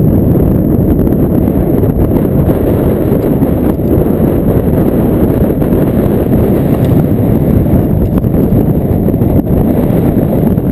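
Loud, steady wind buffeting on the microphone while riding a dirt bike, a low rumble with no clear engine note standing out.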